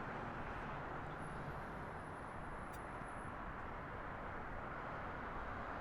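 Steady outdoor background noise: a low, even hum like distant traffic and airport ambience, with no aircraft passing. A faint high thin whine sounds for about two seconds, starting a second in.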